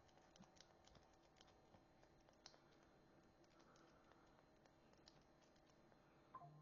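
Very faint, scattered light clicks of plastic acrylic paint markers being handled, over near silence.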